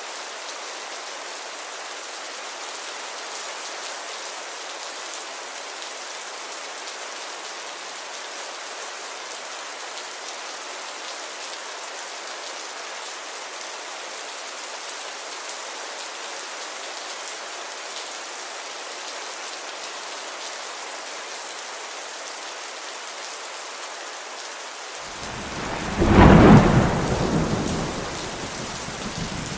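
Steady rainfall, an even hiss. Near the end, a rumble of thunder swells, peaks and fades over about three seconds, louder than the rain.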